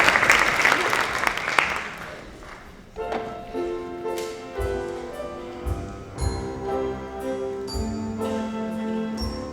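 Audience applause dying away, then about three seconds in orchestral music starts up, with pitched notes and occasional low drum hits.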